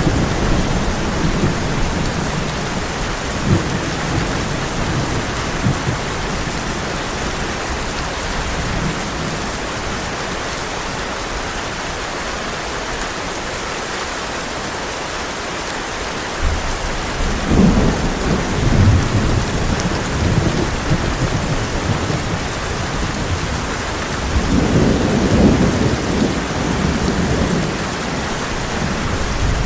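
Heavy rain pouring steadily on a tin roof while thunder rolls. Low rumbles come at the start, build again at about a third of the way through and return near the end.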